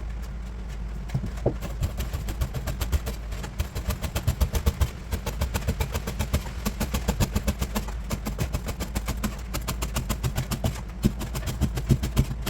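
Pike conger (hamo) being bone-cut: a heavy knife strikes a cutting board in rapid, even strokes, several a second, slicing the fillet's fine bones. A steady low hum runs underneath.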